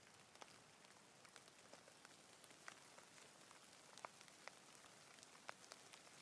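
Light rain: a faint, steady hiss with scattered individual drops ticking on a surface, a handful of them more distinct.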